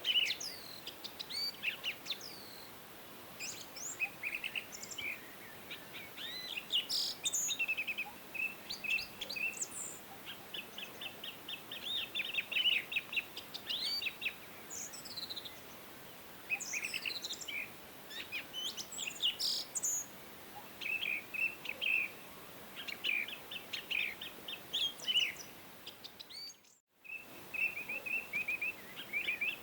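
Several songbirds chirping and singing at once, with fast trills of repeated high notes and quick sweeping chirps over a faint hiss. Near the end the sound cuts out for about half a second, then the birdsong resumes.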